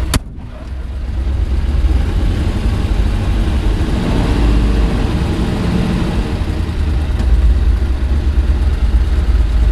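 1936 Ford pickup's engine running as the truck is driven, a steady low rumble that builds up over the first couple of seconds.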